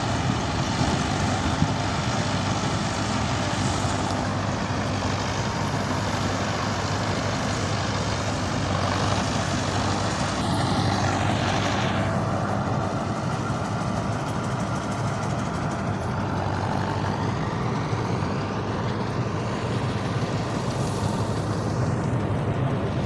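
Wheat-harvesting machine running steadily, a continuous engine drone with a noisy mechanical rush over it; the higher hiss drops away about twelve seconds in.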